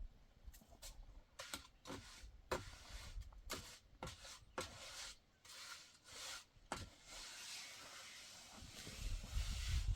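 A string of irregular sharp knocks and scrapes, about a dozen over several seconds, then a steady rubbing or scraping sound that grows stronger near the end.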